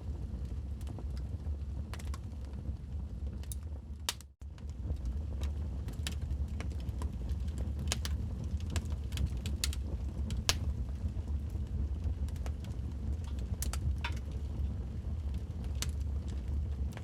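Wood fire crackling in a fireplace: a steady low rumble with irregular sharp pops and crackles. The sound drops out for a split second about four seconds in.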